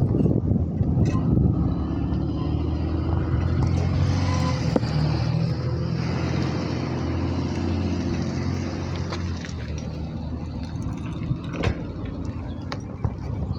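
A motor vehicle's engine running steadily with a low hum, over road and wind noise, with a few faint clicks later on.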